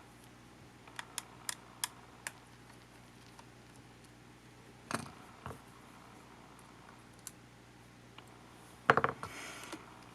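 Light clicks and taps of small parts and tools being handled while a camcorder is taken apart. A quick run of about five clicks comes near the start, two knocks around the middle, and a louder clatter near the end.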